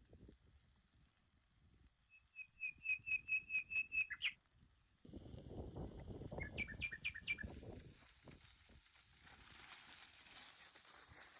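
A forest bird calling: a quick run of about ten short, high, even notes, then a shorter run a few seconds later, over low rustling.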